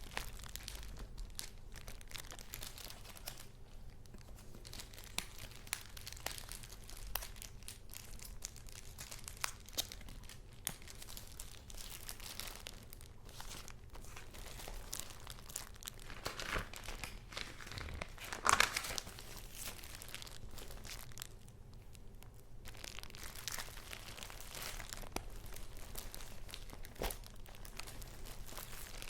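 Paper items being handled: steady light rustling and crinkling with small clicks and taps, and one louder crinkle about two-thirds of the way through.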